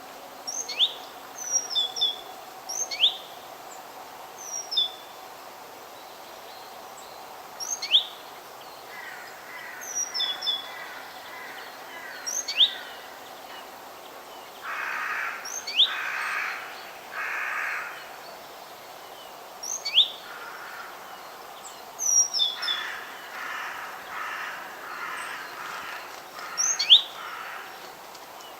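Wild birds calling: sharp, downward-sweeping chirps every second or two, and several runs of harsh, raspy calls, over a steady outdoor hiss.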